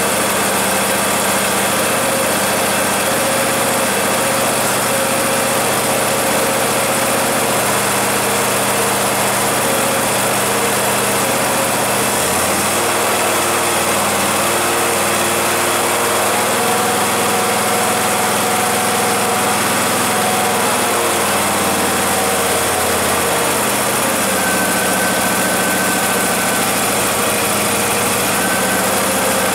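Husqvarna YTH24K48 lawn tractor's 24-horsepower engine running steadily while it warms up after a cold start. Its speed shifts about twelve seconds in and again about twenty-two seconds in.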